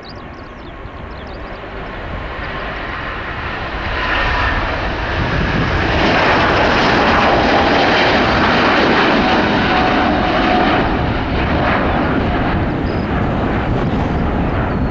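Airbus A350-900's Rolls-Royce Trent XWB turbofans at take-off thrust on departure: a jet roar that builds over the first few seconds, is loudest in the middle and holds, with faint steady whining tones in it.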